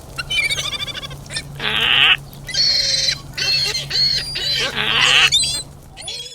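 A rapid string of about six farm-animal calls, one after another, some with a wavering pitch and some harsher and noisier.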